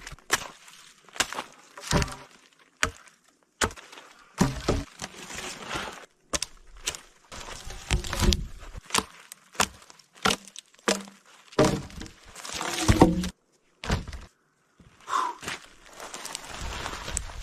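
A series of irregular knocks, cracks and crunches, some sharp and some longer and grinding, spread through the whole stretch.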